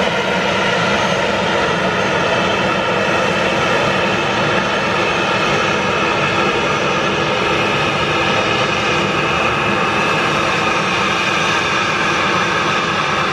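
Boeing 737-800's CFM56 turbofan jet engines running, a loud steady drone with several whining tones held throughout.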